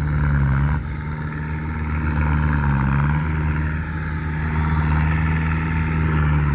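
Large vehicle engine running steadily, its pitch dipping briefly twice, about half a second in and near the three-second mark.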